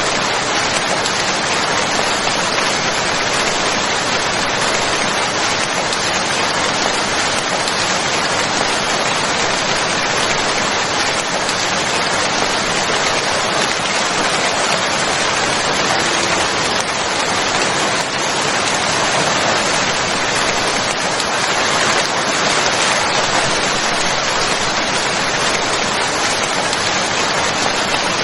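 Steady rainfall, a continuous even hiss of many drops with no gusts or thunder.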